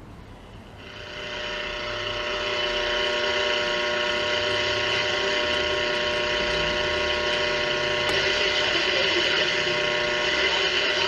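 Vintage Hallicrafters S-120 tube shortwave receiver hissing static through its speaker, with several steady tones mixed in. The static comes up about a second in and grows louder over the next two seconds as the set comes alive, then holds steady. The restorer puts the static down to interference from the camera and the room's fluorescent lights.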